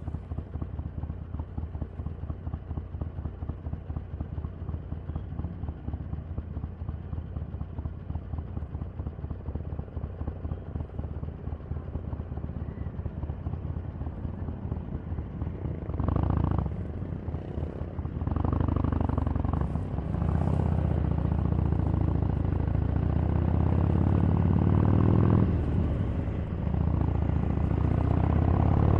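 Harley-Davidson 883's air-cooled V-twin idling with an uneven, pulsing beat for about the first half. A short blip of throttle comes a little past halfway, then the engine pulls away and runs louder under load while riding.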